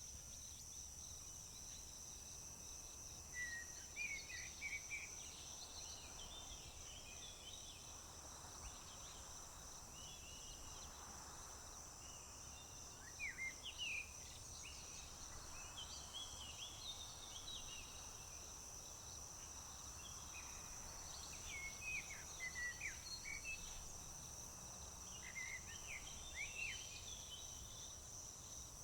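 Crickets trilling in one steady, high-pitched drone, with scattered short bird chirps and calls over it in clusters that come and go.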